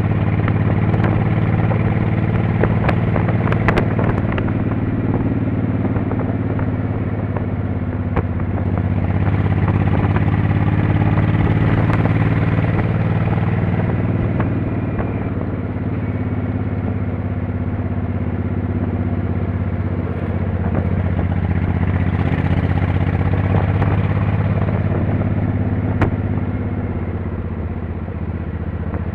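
Motorcycle engine running steadily while riding, growing louder twice as the throttle is opened and easing off between. A few sharp clicks and rattles come through over it.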